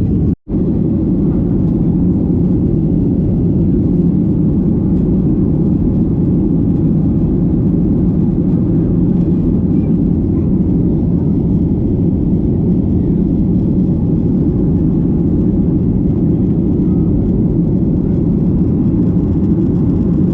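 Steady low roar of a jet airliner's cabin with the engines running, cut off for a moment by an edit under half a second in.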